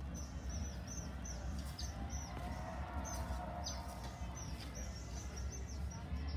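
Small birds chirping: a quick series of short, high, down-slurred calls repeating throughout, over a steady low rumble.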